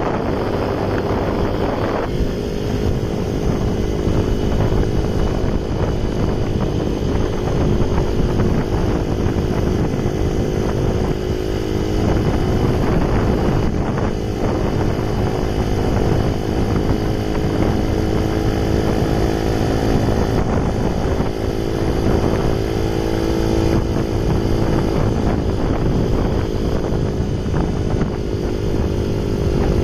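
Honda Ape 50's small four-stroke single-cylinder engine running steadily, its note rising and falling slightly, with wind rumbling on the microphone.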